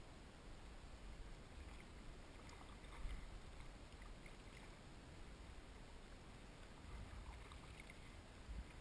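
Faint kayak paddling: soft dips and drips of a paddle in the water, a few light splashes in patches, over a low steady rumble.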